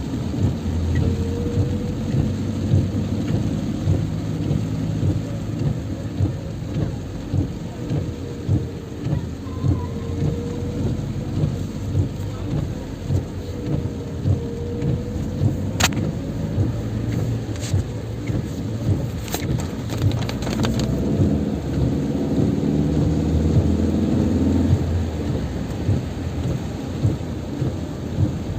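Heavy rain pouring down in a dense, low drumming that pulses roughly once a second, with a few sharp clicks around the middle.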